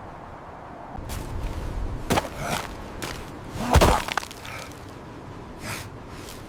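A few sudden cracks or knocks about a second apart, the loudest, with a heavy thud, about four seconds in.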